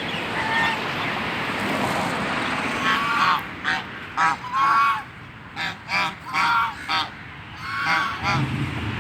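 Domestic waterfowl calling in a rapid series of short, loud calls from about three seconds in, over a steady hiss of rain.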